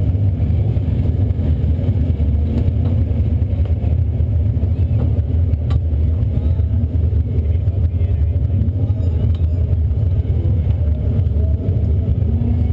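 Race car engine idling steadily, heard from a camera inside the cockpit, with a dense low rumble that holds one level and is never revved.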